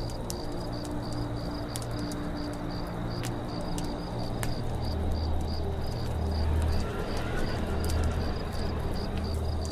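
Campfire crackling with scattered sharp pops, over steady insect chirping at about four chirps a second and faint bird calls. A low rumble grows louder about halfway through.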